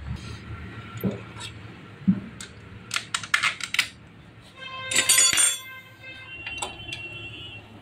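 Metal clinks and clicks of hand tools and bolts as the magneto cover is fitted back onto a Hero HF Deluxe motorcycle engine: scattered knocks, a quick run of clicks about three seconds in, and a louder ringing metallic rattle about five seconds in.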